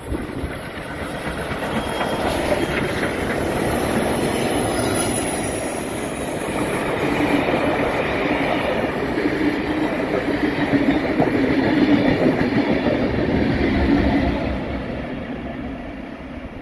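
Steam-hauled heritage passenger train running through, its vintage carriages rolling past with a steady rumble of wheels on rail. The sound builds, is loudest as the rear diesel locomotive goes by near the end, then fades as the train moves away.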